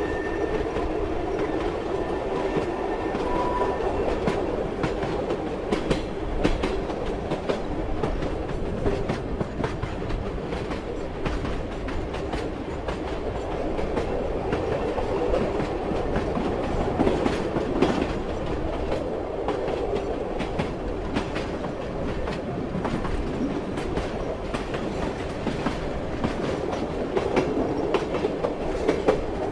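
Moving passenger train: a steady rumble with wheels clattering over the rail joints, a continuous run of irregular clicks. A faint thin whine sounds in the first few seconds.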